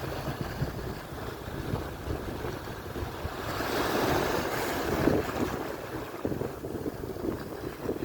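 Atlantic surf breaking and washing up the shore, swelling into a louder hissing wash about four seconds in, with wind gusting on the microphone.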